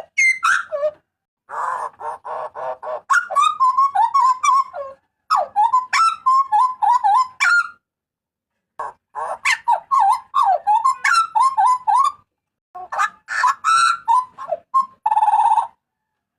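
Hooded butcherbird calling loudly: phrases of quick, warbling whistled notes mixed with harsh, buzzy rasps. The phrases come in bursts with short pauses between them, the longest pause about eight seconds in.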